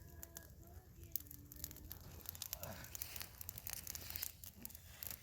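Faint crackling and rustling of branches and brush as a heavy felled tree is shifted by hand, thickest in the middle stretch.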